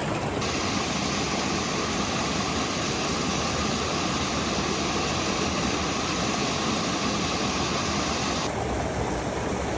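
Steady rush of water from a small plunging mountain creek, an even noise with no break.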